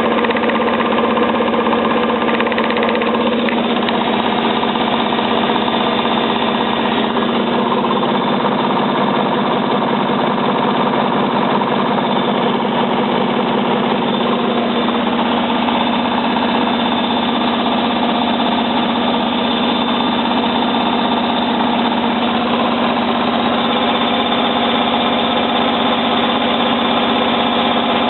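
Hotpoint 9534A washing machine in its spin, the motor and drum giving a steady hum with a fast, even rattle that does not change.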